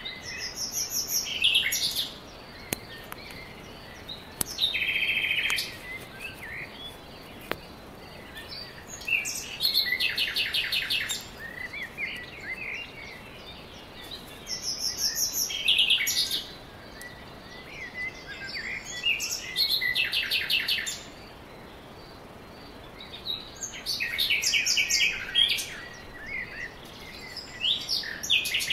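A songbird singing: short phrases of quick, repeated high notes, one phrase every four to five seconds, over a faint steady hiss.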